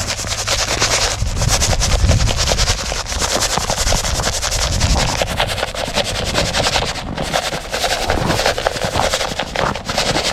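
Granular ice-melter salt being poured and scattered onto snow and ice: a continuous dense patter of many small grains over a low rumble.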